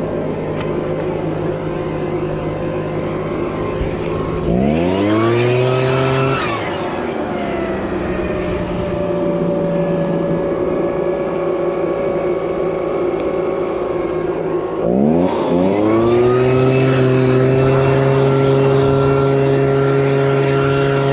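Husqvarna leaf blower engine running steadily, then revved up to high throttle about four seconds in, easing back a little, and revved up again about fifteen seconds in and held high until it cuts off at the end.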